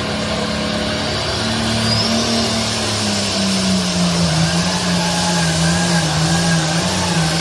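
Pulling tractor's engine running steadily, its pitch dropping slightly about three to four seconds in.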